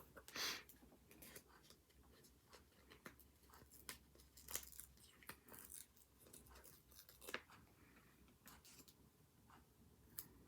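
Faint desk sounds of planner decorating: paper and sticker sheets rustling, with scattered small clicks and taps and a few short louder rustles.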